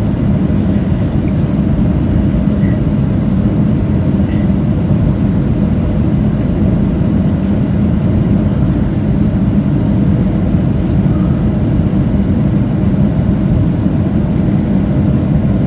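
Steady cabin noise of a Boeing 737-700 in flight, the CFM56 engines and airflow heard from inside the cabin as an even low rush with a faint steady hum.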